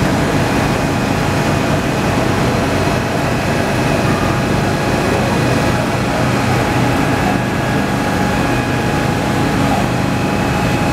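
A machine or engine running steadily: a loud, constant drone with a low hum and no changes.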